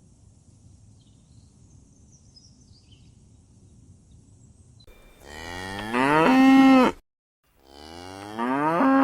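Cow mooing twice after about five seconds of faint background: two long moos, each rising in pitch and then held on a steady tone.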